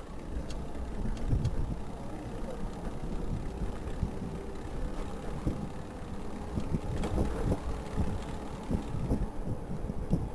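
Steady low rumble of wind on the microphone and road noise from a moving electric bike, with city traffic running underneath.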